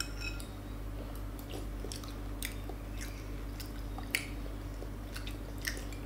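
Close-up chewing and biting while eating pork offal and pork cheek with rice porridge, with short wet mouth clicks scattered through. The two clearest clicks come about four seconds in and near the end. A steady low hum runs underneath.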